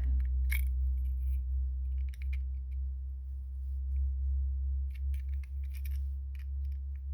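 Small metallic clicks and scrapes, in a few short clusters, from hand-tightening the tiny screw that clamps a cutoff wheel onto a rotary tool's mandrel. A steady low hum runs underneath throughout.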